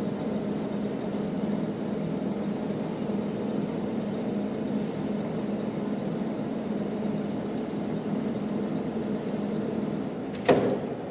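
Manual metal lathe running with a steady hum. A single sharp clank near the end.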